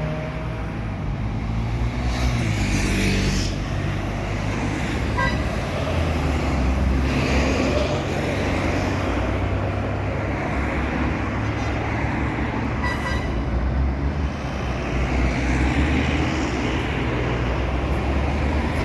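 Truck engine running steadily under way, with road noise, and two short high beeps: one about five seconds in, one past the middle.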